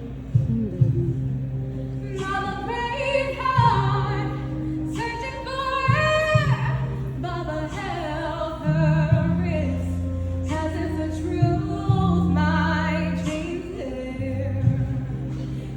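A song: a singing voice carrying a melody over held low notes.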